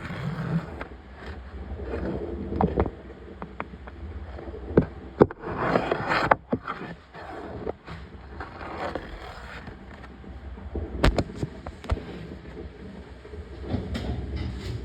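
Laundromat machine running with a noisy, churning bed and scattered knocks and clicks, swelling louder about six seconds in.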